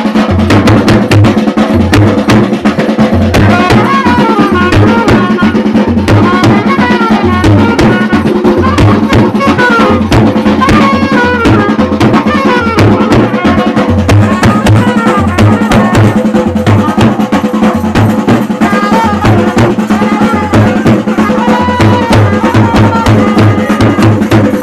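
Traditional Chhattisgarhi baaja band playing a Gauri Gaura festival tune: loud, fast, steady drumming under a droning note and a high, wavering melody line.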